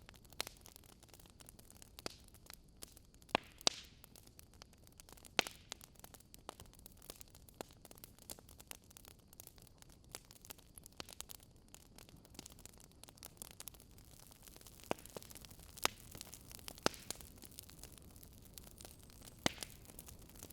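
Campfire crackling: irregular snaps and sharp pops of burning wood over a soft, steady hiss.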